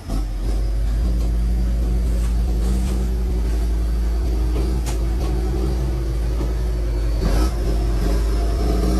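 An old vehicle's engine running steadily as the vehicle drives along, with a continuous low hum.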